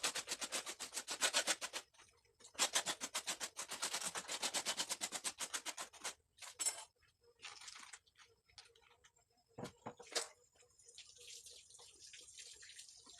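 A stiff brush scrubbing in fast, even strokes, in two runs of about two and three and a half seconds. It is followed by two sharp knocks and a soft hiss near the end.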